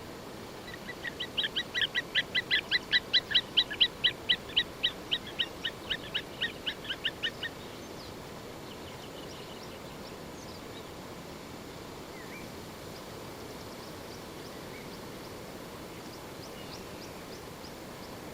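A bird calling a long series of short, evenly spaced notes, about four or five a second, that swell in loudness and then fade, ending after about seven seconds; a few faint chirps follow over a steady background hiss.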